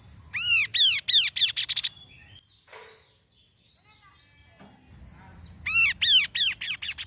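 Kaso-kaso bird singing two phrases. Each phrase is a series of loud arched notes that speed up into a rapid stutter, lasting about a second and a half. One phrase begins just after the start and the other about six seconds in. A faint steady high tone runs underneath.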